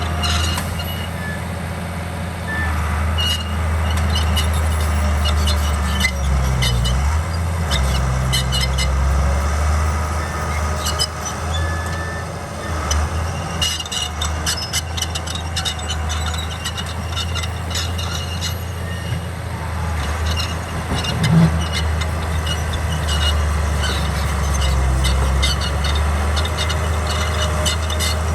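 Komatsu D41P bulldozer's diesel engine running steadily, with clusters of sharp metallic clicks and clanks from its steel tracks as it works.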